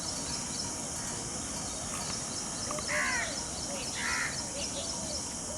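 A crow cawing twice, two short harsh caws about a second apart, over a steady hiss with faint lower bird calls behind.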